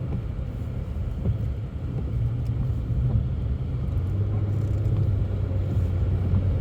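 Steady low rumble of a car being driven, heard from inside the cabin: engine and tyre noise on snowy roads, a little stronger from about four seconds in.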